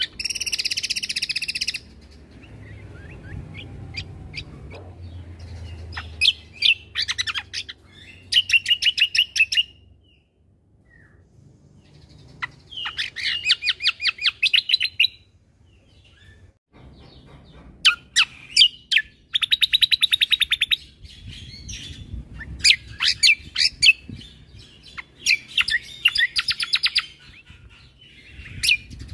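Cucak kombo (kecial kombo) singing in repeated bursts of fast, high trills. Each burst lasts one to two seconds, with short pauses between them, over a faint low rumble.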